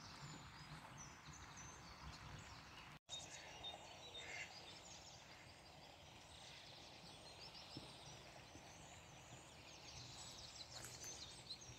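Faint birdsong, scattered short chirps and twitters, over a quiet outdoor background hiss, with a brief total dropout about three seconds in.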